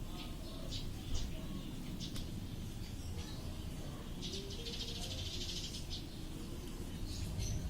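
Lovebirds chirping: short high-pitched chirps scattered throughout, with a burst of rapid chattering lasting over a second about four seconds in, over a steady low rumble.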